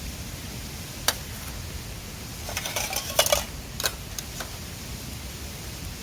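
Camp cookware and utensils clinking and clattering as they are handled: a single sharp clink about a second in, a burst of clatter around the middle, then a few lighter clinks, over the steady rush of the river.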